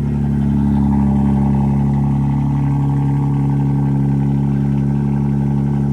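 A car engine running steadily at constant speed, close by, swelling slightly about a second in.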